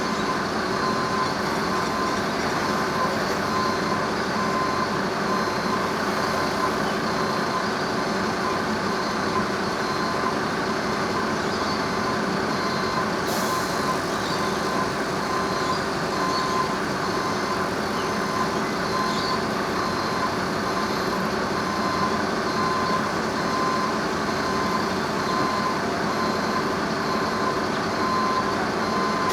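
Heavy diesel engine running steadily at idle, with a high tone pulsing on and off over it.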